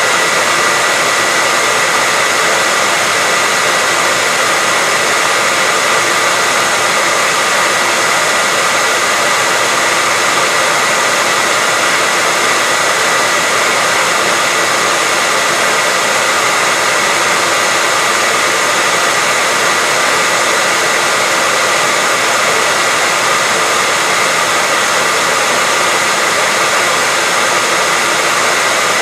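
Hair dryer running steadily, a constant loud rush of air with a steady high-pitched whine in it.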